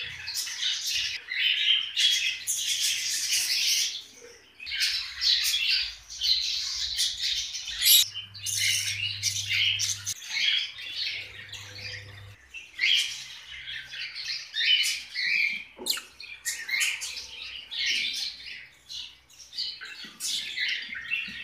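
A flock of caged small parrots chattering and squawking, many shrill overlapping calls with hardly a break.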